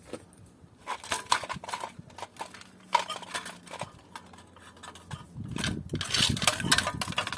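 The air conditioner's metal refrigerant pipes being handled and bent by hand to straighten them: scattered metallic clicks and knocks, then a denser stretch of clinking and rubbing about five and a half seconds in.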